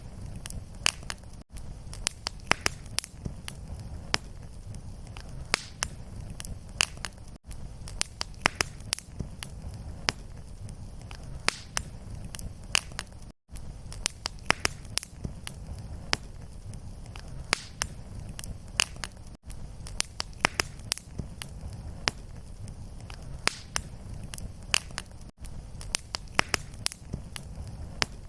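Fireplace fire crackling, with frequent sharp pops and snaps over a steady low rumble of burning. The sound cuts out very briefly about every six seconds, where the looped fire recording repeats.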